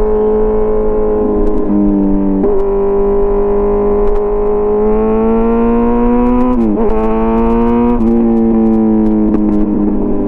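Kawasaki Z900 inline-four engine running at high revs through an SC Project CRT exhaust. The pitch holds steady, climbs slowly about halfway through, and steps abruptly up or down a few times.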